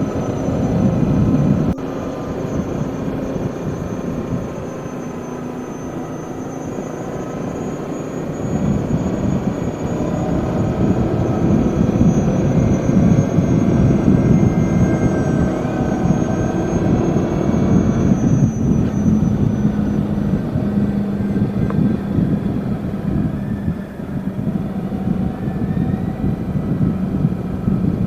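Yamaha Jupiter Z underbone motorcycle running on the road, its single-cylinder four-stroke engine noise continuous. The engine eases off about two seconds in and pulls harder again from about eight seconds.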